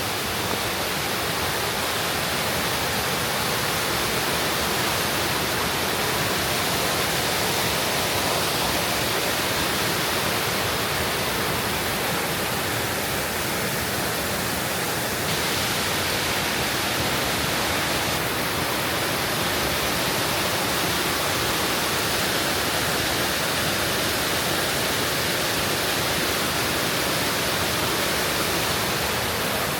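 Cascading mountain water rushing steadily, an even roar with a slight change in tone between about fifteen and eighteen seconds in.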